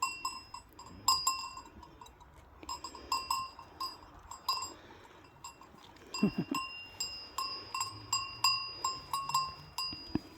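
Sheep bells clanking irregularly as the sheep move, with a short low call about six seconds in.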